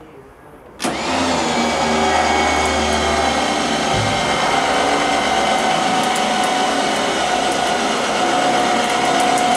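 Electric motor of a shed lift hoisting miniature-railway coaches to the upper level: it starts about a second in and runs steadily with a whine.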